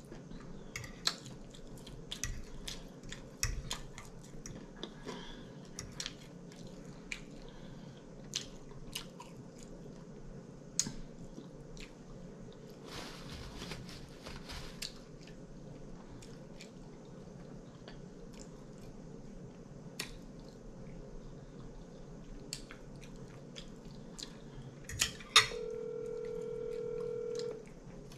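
Close-up eating sounds of air-fried chicken wings: chewing and lip smacks with scattered sharp clicks, and a paper-towel rustle about halfway through. Near the end a phone starts ringing with a steady electronic tone for about two seconds.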